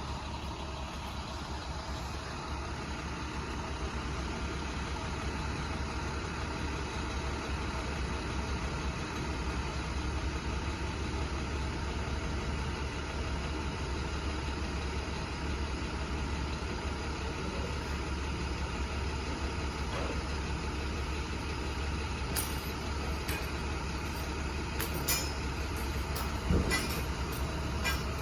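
Box truck's engine idling steadily, a constant low rumble. A few light clicks and a thump come near the end.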